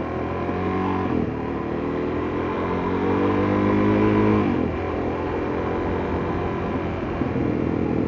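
Suzuki DR-Z400S single-cylinder four-stroke engine and exhaust under way. Its pitch climbs as the revs build from about a second in, then drops suddenly about four and a half seconds in and holds steady.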